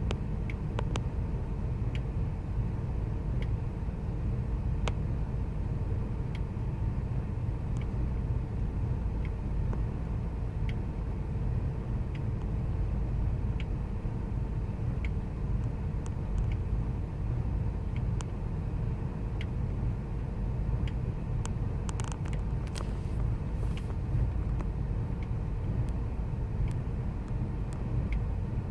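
Ford 5.4-litre V8 idling roughly, a steady low rumble with faint ticks now and then.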